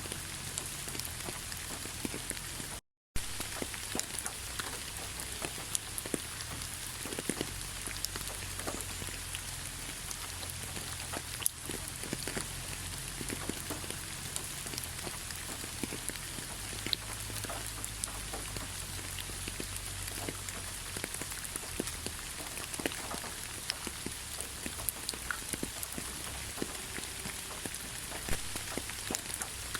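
Steady rain falling, an even hiss dotted with many separate drop taps. The sound cuts out completely for a split second about three seconds in.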